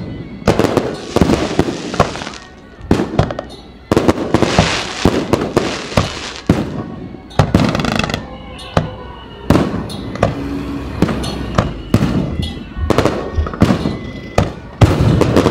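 Aerial fireworks display: shells bursting one after another in loud sharp bangs, with stretches of crackling between them.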